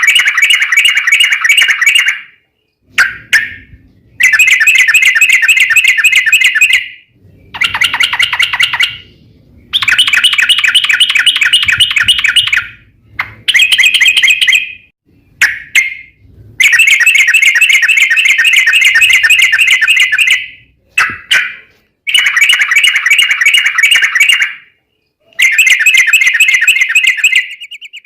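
Yellow-vented bulbul (trucukan) singing loudly in long, rapid trilling phrases. There are about ten bursts of quickly repeated notes, each lasting from half a second to about four seconds, with short pauses between them.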